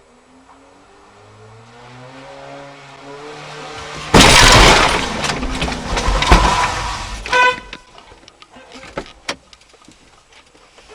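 A vehicle's engine rising in pitch as it speeds up, then about four seconds in a sudden loud crash: a long crunching impact of a road collision lasting a few seconds, with brief high tones near its end, followed by scattered clatter of debris.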